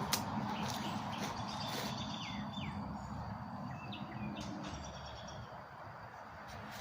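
Birds chirping a few short, gliding notes over a steady low background rumble, with a single sharp click right at the start.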